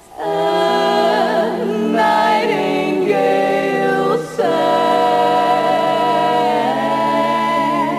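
Wordless vocal harmony: several voices hold long notes together with vibrato, moving to a new chord every second or so, with a brief break about four seconds in.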